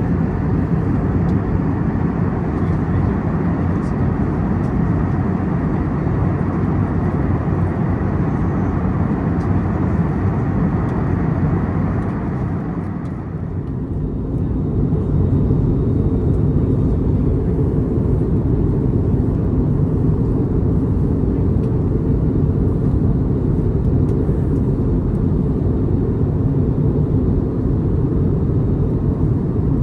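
Steady cabin noise of an Airbus A321neo in flight: a constant rush of air and engine rumble. About 13 seconds in, the higher hiss drops away sharply, leaving a steady low rumble.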